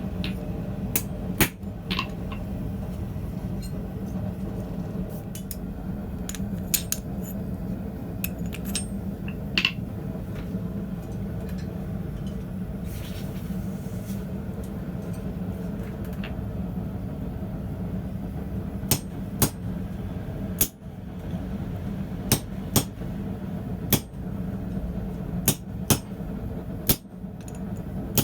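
Blacksmith's hammer striking a steel rod on a small anvil: a few scattered strikes at first, then steadier blows roughly once a second over the last ten seconds. A steady low hum runs underneath.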